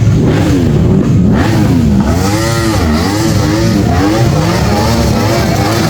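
Several car engines revving at once, loud, their pitches rising and falling and overlapping over a steady low drone, with one big rise and fall about two to three seconds in.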